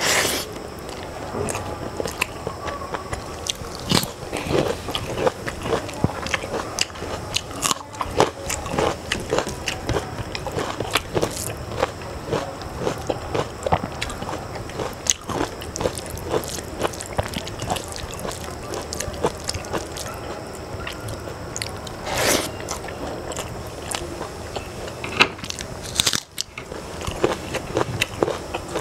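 Close-up eating sounds: chewing mouthfuls of rice and curry eaten by hand, mixed with fingers mashing rice and scraping on a steel plate, heard as irregular clicks and crunches.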